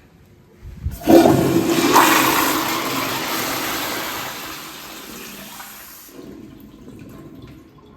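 A commercial flush-valve fixture flushing. A loud rush of water starts suddenly about a second in, then fades over several seconds to a quieter trickle near the end.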